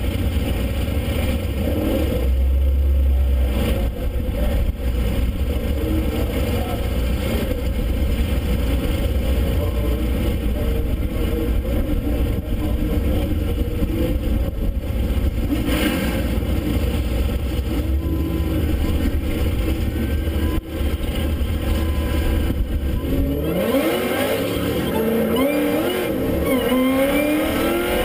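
Ford Mustang engine heard from inside the cabin, idling with a steady low rumble at the drag-strip starting line. About twenty-three seconds in it launches at full throttle, its pitch climbing in repeated rising sweeps as it shifts up through the gears.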